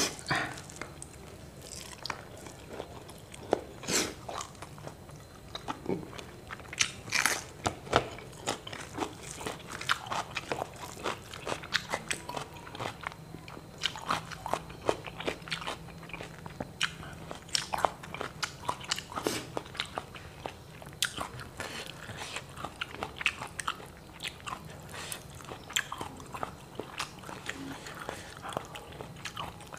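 Close-miked eating: chewing fried tilapia and rice, with frequent irregular crunches and wet mouth clicks throughout. A steady low hum runs underneath.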